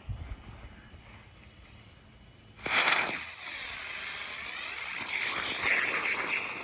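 Aerial spinner firework igniting with a sudden loud hiss about two and a half seconds in, then spinning with a whirring whine that wavers up and down in pitch as it tries to fly.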